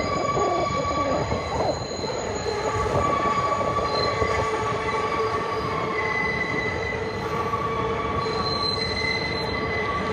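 R188 subway train rolling into the station with its steel wheels squealing: several steady high squeal tones held over the continuous rumble of the cars.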